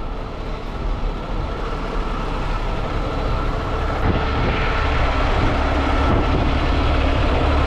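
Steady low engine rumble with a faint high whine, growing gradually louder.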